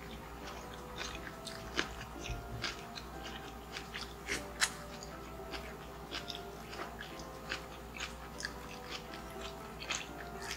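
A person chewing and biting food close to the microphone, with irregular crisp crunches and mouth clicks.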